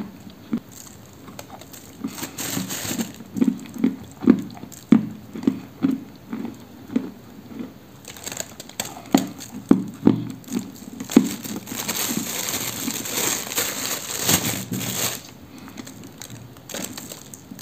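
Close-miked chewing of a dry lump of soft, crumbly edible apricot clay: dull crunches about two a second for the first ten seconds, then a longer gritty rustle a few seconds later.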